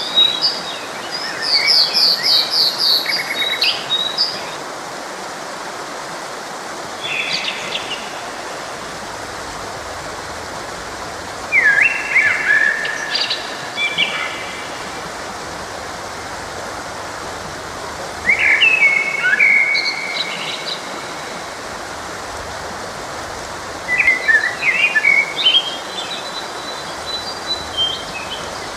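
Songbirds singing in short chirping phrases every few seconds over the steady rush of a forest stream.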